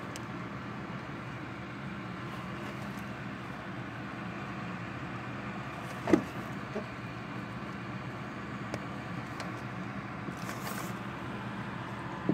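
Heavy rain falling steadily, with a sharp knock about six seconds in and a few faint ticks of drops.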